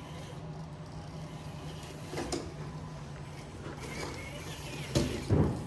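Traxxas TRX-4 RC rock crawler creeping down rocks under its motor's drag brake, the motor and gears humming steadily, with a couple of knocks about five seconds in as the truck drops onto the rocks.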